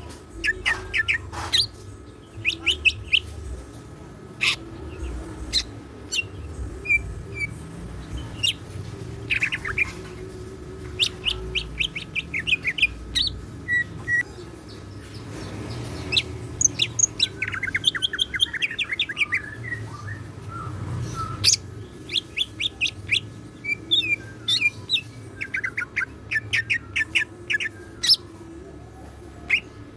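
Green leafbird (cucak ijo) singing in bouts of rapid chirps and fast trills, a varied song that includes mimicked notes. A steady low hum runs underneath.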